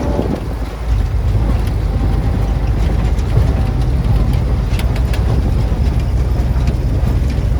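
Old open military Jeep's engine running as it drives along, a steady low drone with road and wind noise, easing off briefly about half a second in before running steady again.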